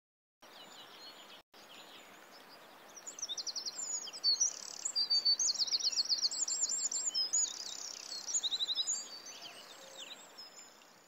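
Small birds singing: rapid, looping, high-pitched trills and chirps that build up about three seconds in and fade near the end, over a steady outdoor hiss.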